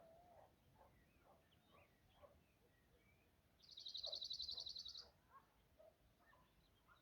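Songbirds calling faintly in the background, with one loud, rapid, high trill of quickly repeated notes lasting about a second and a half in the middle.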